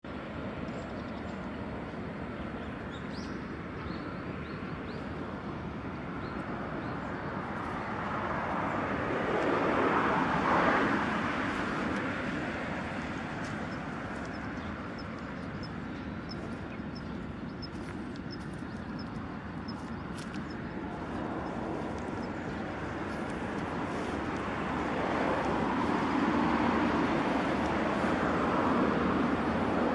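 Road traffic: a car passes by about ten seconds in, and another vehicle grows louder near the end, over a steady outdoor hum with faint high chirps.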